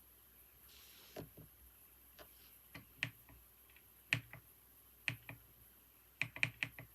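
Computer keyboard keys tapped in a slow, uneven rhythm: single keystrokes about a second apart, then a quick run of about five near the end.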